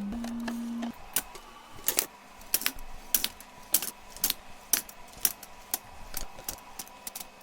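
Items being handled and set down while restocking, giving a string of irregular sharp clicks and light clinks of hard plastic and containers. A steady low hum sounds for about the first second.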